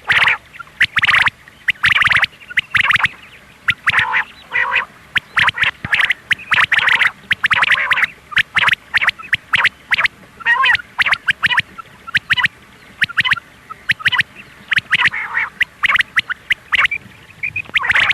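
Quail calling: short, harsh, scratchy call notes repeated in quick clusters with brief pauses between them.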